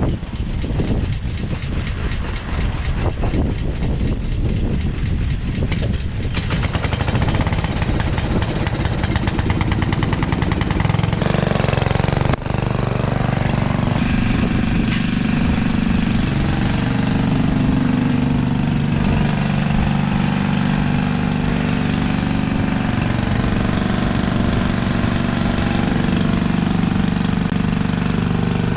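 Simplicity Landlord garden tractor engine running with a rapid, rhythmic beat. It grows harsher about six seconds in, dips for a moment around twelve seconds, then settles into a steadier running note that wavers slightly in pitch.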